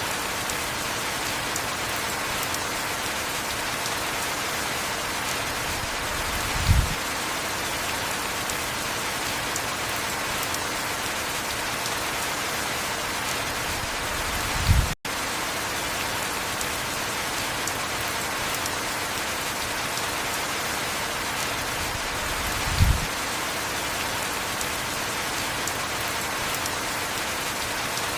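Steady heavy rain, an even hiss. A short low thud comes about every eight seconds, three times in all, and the sound drops out for a split second about halfway through.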